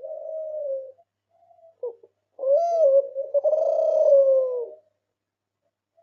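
Derkuku kelantan dove cooing: a short coo at the start, a brief note about two seconds in, then a longer, louder coo lasting about two seconds.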